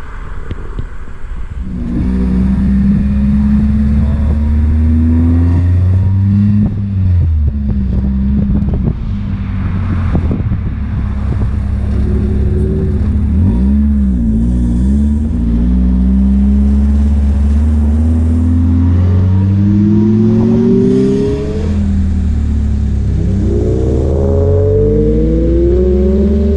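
2012 Dodge Challenger SXT's V6 running through a Borla Type S cat-back exhaust, revved again and again from idle, its pitch climbing on each blip and dropping back. It gets louder about two seconds in, with the steepest, highest revs near the end.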